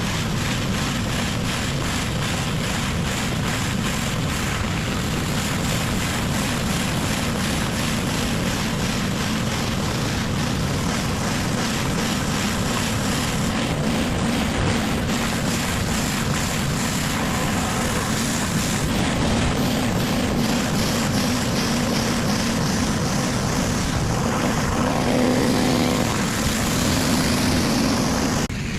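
Gas-engine pressure washer running steadily while its high-pressure water jet hisses against a hard surface; a little louder near the end.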